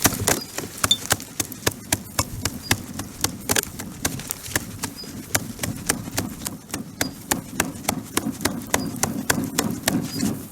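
Wood campfire crackling: sharp, irregular snaps and pops, a few each second.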